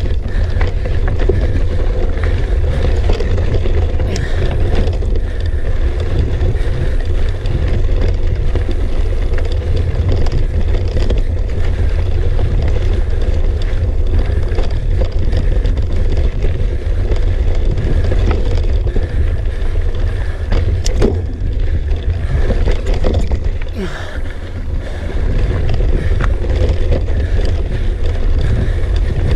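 Steady low rumble of wind and movement on the microphone during a mountain bike climb, with scattered clicks and knocks from the bike.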